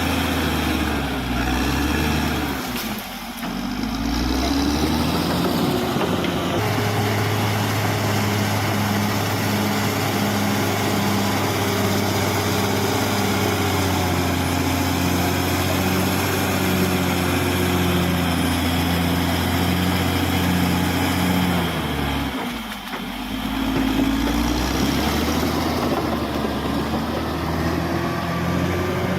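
Diesel engine of a Caterpillar D6R XL bulldozer running, its pitch stepping up and down as the load changes, with two brief dips.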